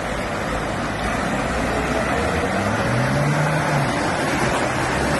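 An engine running steadily, with a brief low hum standing out for about a second in the middle.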